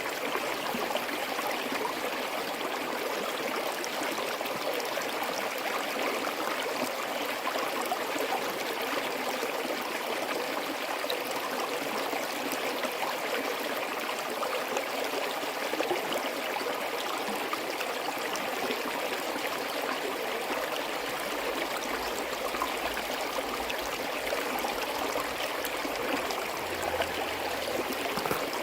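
Small forest stream running steadily over rocks, a continuous babbling rush with fine splashing detail.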